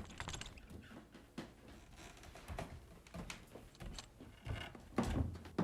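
Scattered light knocks, clicks and rustles at an uneven pace in a small room, loudest about five seconds in.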